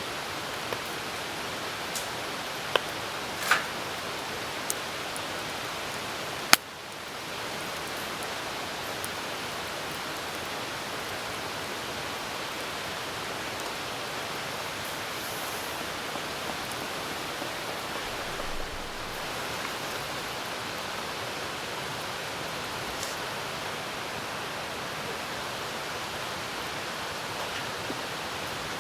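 Steady hiss of rain, with a few sharp pops and cracks from a wood campfire in the first seven seconds, the loudest about six and a half seconds in.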